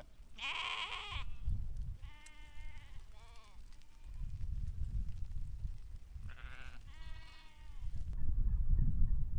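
Sheep bleating, about four wavering calls, the first near the start the loudest, with a low rumbling noise under and between them.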